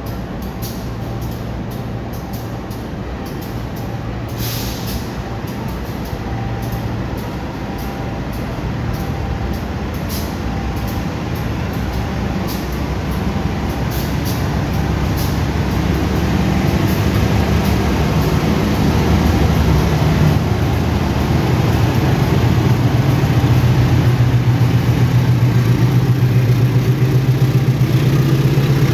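A diesel locomotive and its passenger train drawing into the station, the engine's low drone and the rolling noise growing steadily louder as the train comes closer and its coaches pass.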